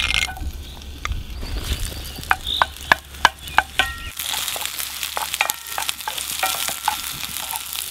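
Sliced onions frying in hot oil in a cast-iron pan, sizzling, with a wooden spoon knocking against the pan as they are stirred. The sizzle gets louder about halfway through.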